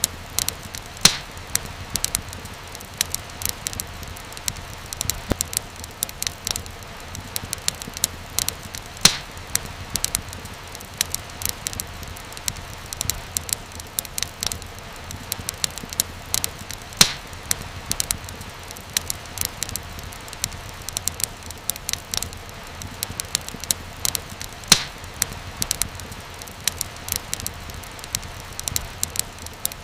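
Wood fire crackling: frequent irregular sharp pops and snaps, a few louder ones, over a steady low rumble of burning.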